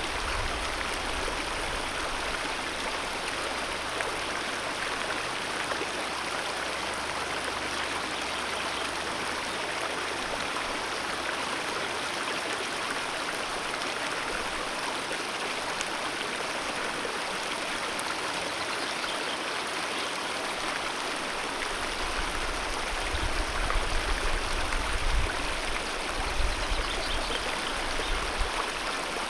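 Alpine mountain river rushing steadily over rocks, a continuous full hiss of moving water. A few low rumbles come in near the end.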